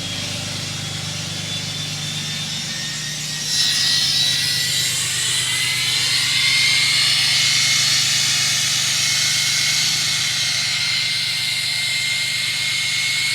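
A machine running with a jet-like rushing sound and a high whine that slowly creeps up in pitch. It gets louder about three and a half seconds in, just after a low hum underneath fades away.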